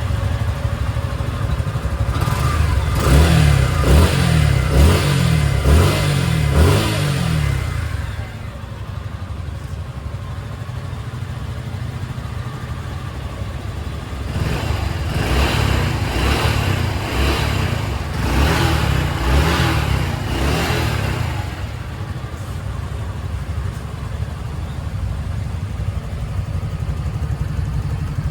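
Motorcycle engine idling, with two spells of quick throttle blips, several short revs in a row, a few seconds in and again past the middle.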